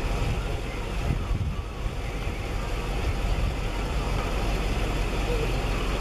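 Cadillac engine idling with a steady low rumble.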